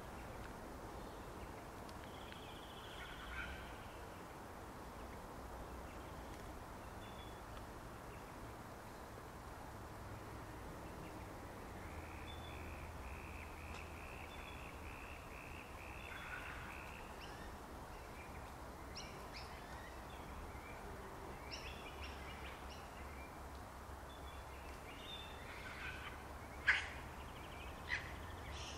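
Faint steady background hiss with scattered wild bird calls: a rapid run of repeated chattering notes about twelve seconds in, then short chirps, the loudest a sharp call near the end.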